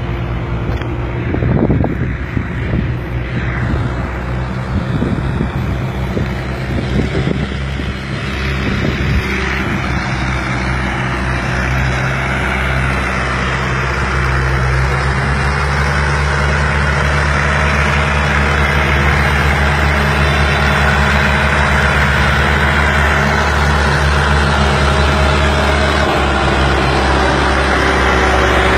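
Fiat 480 tractor's diesel engine running steadily, with some irregular knocks in the first part, then growing louder and holding at a higher, steady level through the rest.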